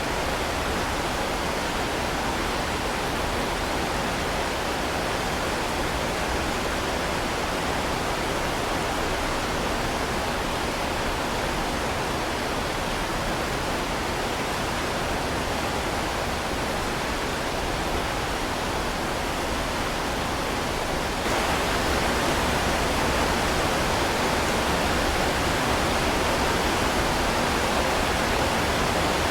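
Heavy rain falling as a steady, even hiss with no separate drops or thunder standing out; it gets a little louder about two-thirds of the way through and holds there.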